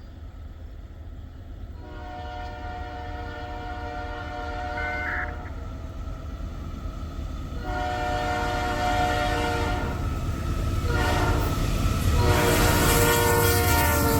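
An approaching train's locomotive air horn sounding several long chord blasts over the low rumble of the train, growing louder as it nears.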